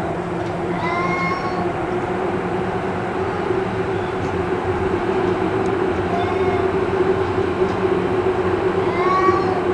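Cats yowling: three drawn-out, arching wails about a second, six seconds and nine seconds in, over a loud steady hum. The uploader wonders whether the cats are fighting.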